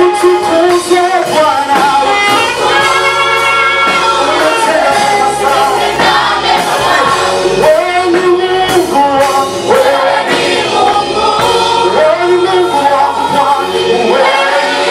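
Choir singing a Swahili gospel praise song with band accompaniment, over a steady bass line and a regular beat.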